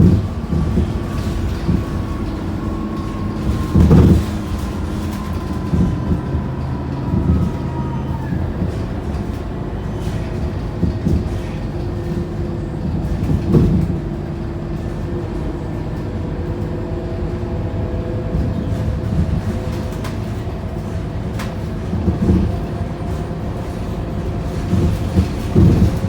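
Scania K230UB city bus with its five-cylinder diesel, heard from inside the cabin while driving: a steady engine and drivetrain drone with a faint whine that slowly falls in pitch over the first several seconds. Rattles and thumps from the body over bumps come through, loudest about 4 and 13 seconds in and near the end.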